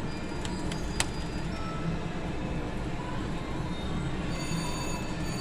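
Casino floor din around a VGT slot machine, with a few sharp clicks in the first second, the loudest about a second in, and steady electronic chiming tones from the machine starting a little past four seconds.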